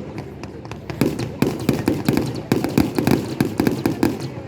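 Fireworks bursting in quick, irregular succession, several sharp bangs and crackles a second.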